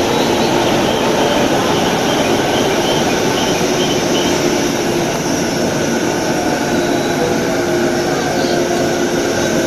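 JR 185 series electric train running, a steady rumble of wheels and rail with a held, even motor hum.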